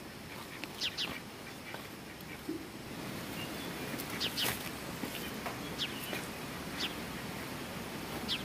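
Small birds chirping: short, high chirps that sweep downward, singly or in quick pairs every second or two, over a steady outdoor hiss.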